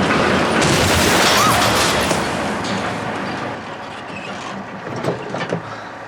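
Loud crash and rumble of a tractor smashing into a barn, dying away over a few seconds. Scattered small knocks follow, like falling debris settling.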